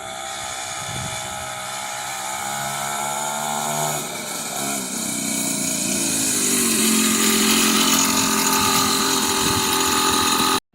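Small 50cc two-stroke mini dirt bike engine running under throttle, its buzzing pitch rising and falling as it revs and growing steadily louder, then cutting off abruptly near the end.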